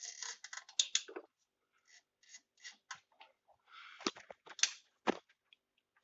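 Hand work on the engine with the motor stopped: irregular short scrapes and clicks of tools and metal parts, with a few sharper knocks about four and five seconds in.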